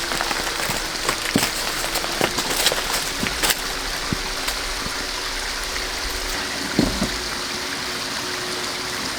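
Steady rush of a mountain valley stream under light drizzle, with scattered small taps of drops in the first few seconds and a couple of soft knocks near seven seconds.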